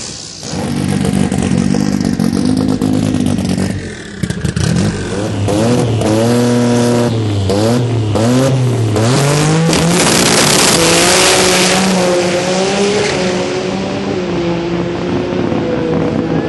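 Nissan 300ZX twin-turbo V6 engine in a drag-race 350Z, running loud and revving. Its pitch swings up and down several times in the middle, then it holds a steadier note.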